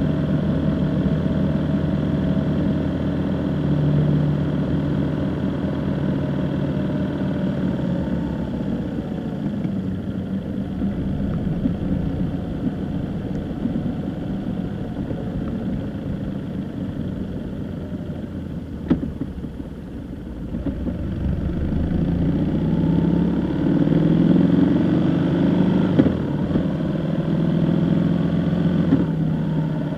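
A vehicle engine running with road noise while driving, easing off around twenty seconds in and picking up again shortly after.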